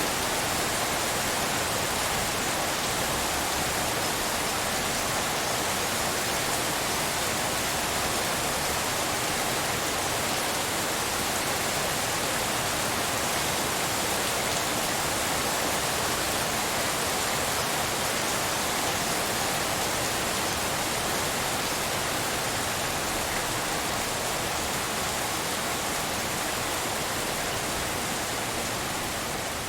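Steady rainfall, a dense even hiss with no single drops standing out, easing off slightly near the end.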